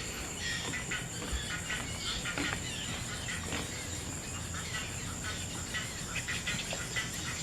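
Insects trilling: a steady high-pitched drone with many short, irregular chirps and ticks scattered over it.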